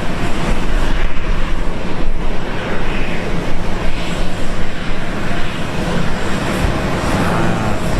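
Jet airliner engines running, a steady dense rumble and roar of aircraft at the airport.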